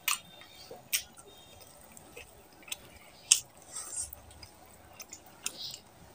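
Close-miked eating of mutton curry with the fingers: wet chewing and lip smacks, with sharp mouth clicks near the start, about a second in and just past three seconds.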